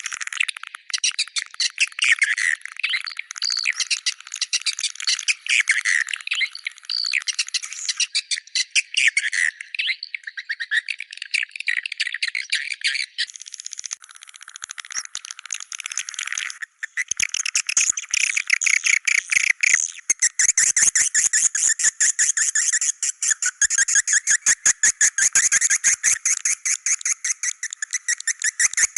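Swiftlet calls: dense, rapid chirping and twittering. After a brief break about two-thirds of the way in, it turns into a faster, evenly repeating run of chirps.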